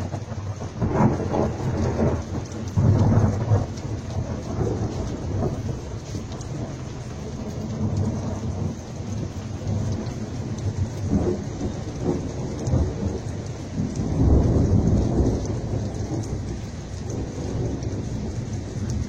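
A deep rolling rumble that starts abruptly and swells several times, loudest about three seconds in and again near fourteen seconds, over a steady hiss.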